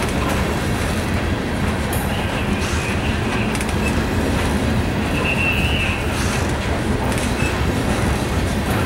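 Loaded coal hopper cars of a long freight train rolling past, a steady rumble of wheels on rail with faint clicking. Brief faint wheel squeal rises about two and a half and five and a half seconds in.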